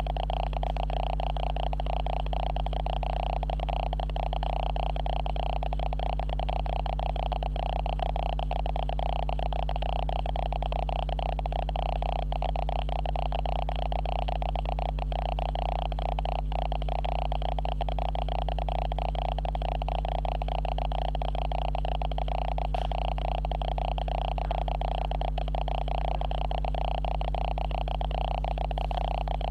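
Steady electrical hum and buzz produced by the camera's own fault noise: a constant low drone with a higher whine layered over it, unchanging throughout.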